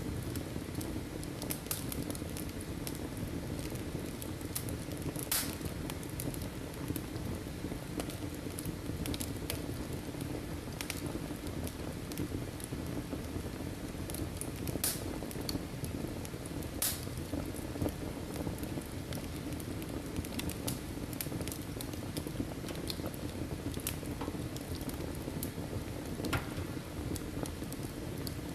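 Wood fire burning in a fireplace: a steady low sound of the flames with scattered sharp crackles and pops from the burning logs, the loudest about five, fifteen and seventeen seconds in.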